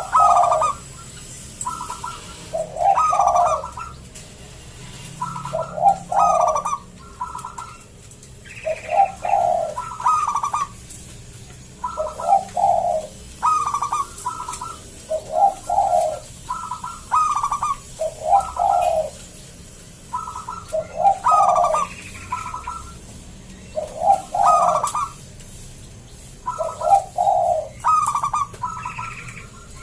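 Zebra dove (perkutut) singing over and over in a thick, big voice. Each phrase is a string of short coos, and a new phrase starts every two and a half to three seconds.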